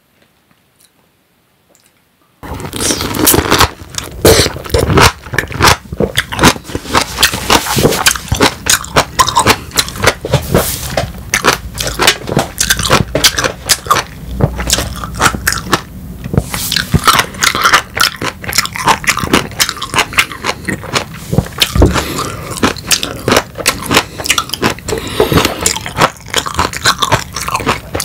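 Biting into and chewing a whole peeled lemon. It is a loud, dense run of quick mouth clicks that starts suddenly about two seconds in.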